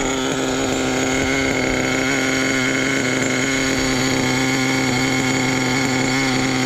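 Small nitro RC truck engine idling steadily at an even pitch.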